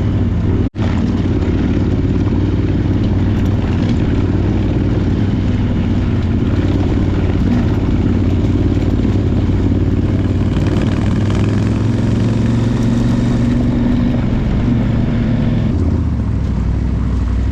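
Adventure motorcycle's parallel-twin engine running under way, with wind and road noise. The engine note climbs and shifts roughly two thirds of the way through. The sound drops out for a split second just under a second in.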